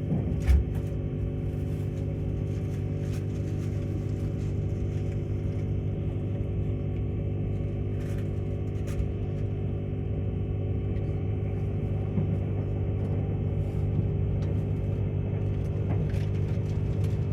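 Steady low rumble and hum of a Queensland Rail electric Tilt Train running at speed, heard from inside a carriage, with a single thump about half a second in and a few faint clicks.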